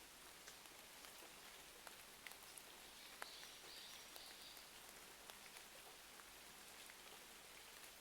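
Faint rain-and-fireplace ambience: a steady rain hiss with scattered sharp crackles and pops from a log fire.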